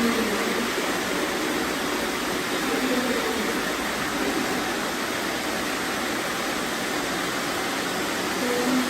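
Several robot vacuums running together on a confetti-strewn floor, a steady whirring noise that stays even throughout.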